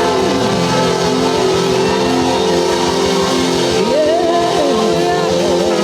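A congregation shouting and cheering together, many voices rising and falling at once, over held chords of church music. It is a collective praise shout.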